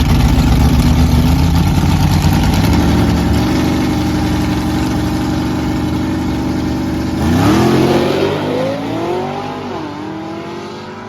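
Drag race car engine at full throttle: a loud, steady engine, then about seven seconds in an engine revs up with a rising pitch that drops back twice at gear shifts as it pulls away and fades.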